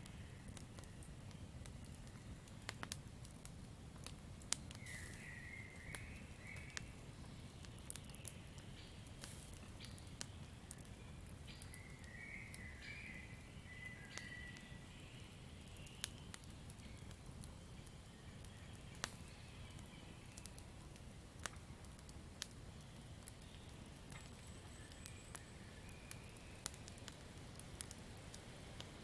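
Campfire crackling: irregular sharp pops and snaps over a steady low rumble. A few short wavering calls come in several times, near the start, about a third of the way in and near the end.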